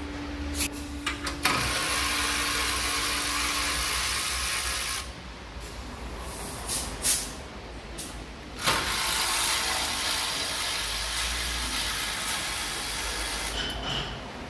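Pressurised spray hissing in two long stretches, the first about three and a half seconds and the second about five, with a few sharp clicks and knocks before and between them.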